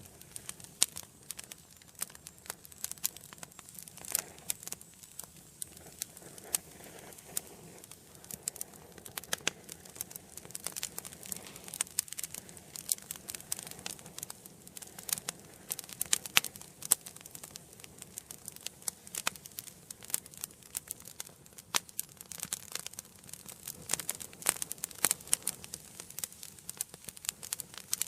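Wood fire burning in a fireplace: dense, irregular crackling and popping over a soft low hiss.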